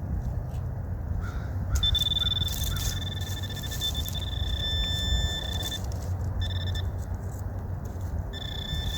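Metal detector's high, steady target tone, sounding in long stretches that cut out and come back as the buried piece of lead is pinpointed, over low scraping and handling noise from digging in the dirt.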